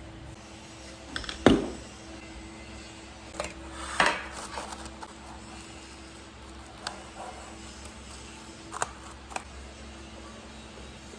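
Household clatter: a few sharp knocks and clinks of dishes or utensils being handled, the loudest about a second and a half in and again about four seconds in, over a steady low hum.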